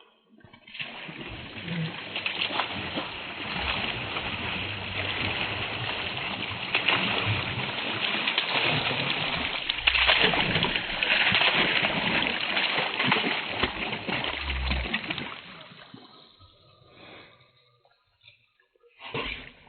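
Water splashing and sloshing steadily for about fifteen seconds as hound puppies play in it, with a few louder splashes near the middle and toward the end, then dying away.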